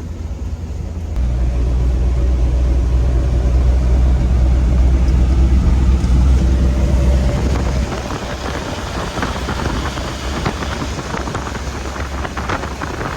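Road and engine noise from a moving Suzuki pickup, heard from inside the cab. A deep rumble swells about a second in and eases off about eight seconds in. A lighter, crackling noise carries on over it after that.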